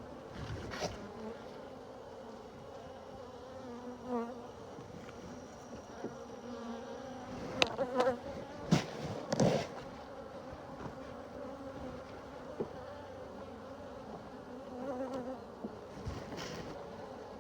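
Honeybees buzzing steadily around an opened hive, picked up by a phone in a beekeeping suit pocket. A few sharp knocks and rustles come in the middle.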